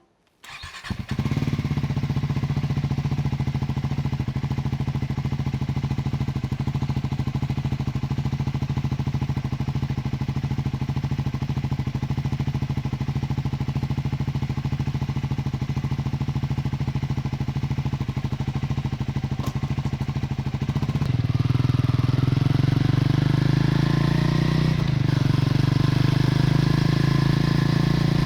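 Triumph Scrambler 400 X's single-cylinder engine with its stock exhaust starting up under a second in and then idling steadily. About 21 seconds in, the revs step up and hold at a higher, louder note.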